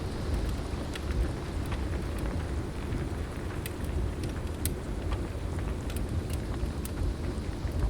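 Heavy rain with a steady low rumble of thunder, over a log fire crackling in sharp, scattered pops.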